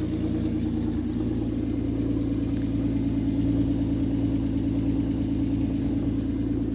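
1998 Audi A4's 2.8 V6 idling steadily on a cold engine, very loud from an exhaust leak, most of the noise coming from the front of the engine.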